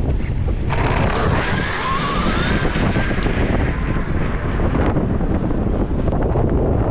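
Strong wind buffeting the microphone throughout. From about a second in until about five seconds, the high whine and hiss of a Traxxas X-Maxx 8S RC car's brushless electric motor driveline come in over the wind, its pitch rising as it speeds up, then cut off.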